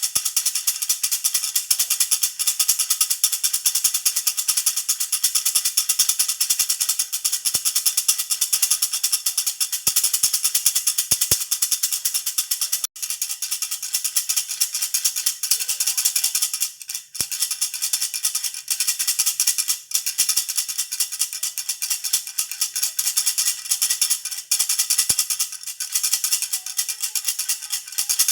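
Jhunjhuna baby rattle shaken steadily, a dense, fast rattling with a momentary break about halfway through.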